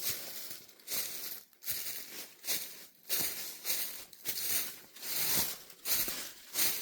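Footsteps crunching through dry fallen leaves on a forest trail, at a steady walking pace of about one step every half-second or so.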